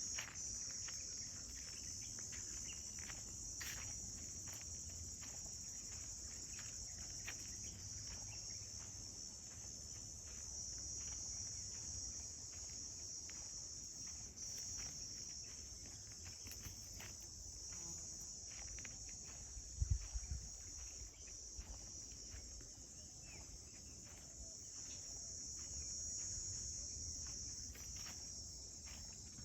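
Steady, high-pitched chorus of forest insects, crickets or cicadas, over a low rumble, with scattered faint clicks and one short thump about two-thirds of the way through.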